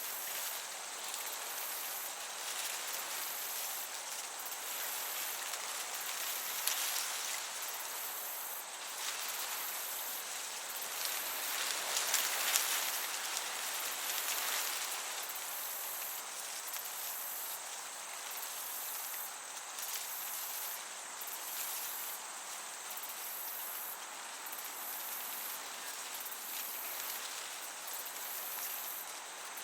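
Crickets chirping in a steady, evenly pulsing high chorus over the soft hiss of a breeze, which swells briefly near the middle.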